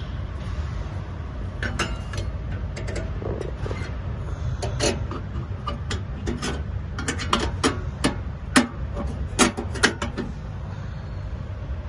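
Irregular sharp clicks and metallic knocks of parts and hand tools being handled, over a steady low rumble. The clicks come in a loose string, thickest and loudest near the end.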